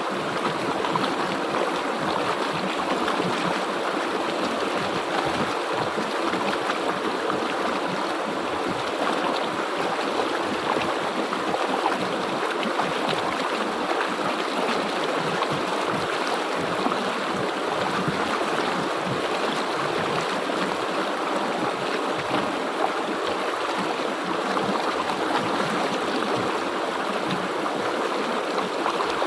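River water flowing and gurgling over rocks, a steady rush.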